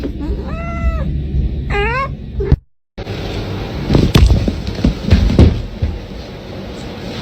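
A cat meowing twice, two drawn-out meows in the first two seconds. After a brief silence there are a few loud thumps over a steady background noise.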